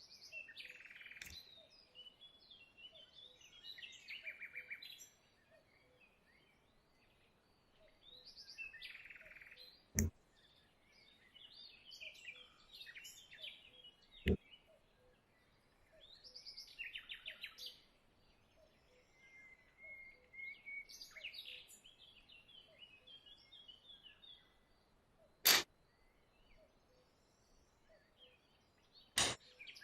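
Small birds singing in short, repeated chirpy phrases every few seconds. Four sharp clicks or taps stand out, the loudest two near the end.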